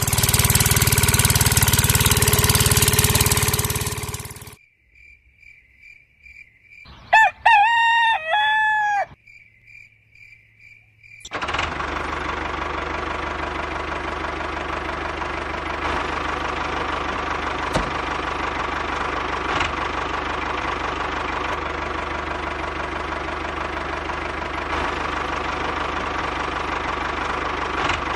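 A small engine running loudly, cutting out about four and a half seconds in; in the quiet that follows, a rooster crows once. From about eleven seconds a small engine runs steadily again.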